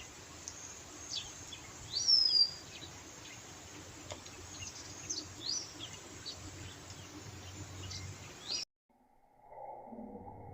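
Wild birds chirping in a forest, short quick chirps over a low steady background hiss, with one loud falling call about two seconds in. The sound cuts off abruptly near the end, and a duller, different sound takes over.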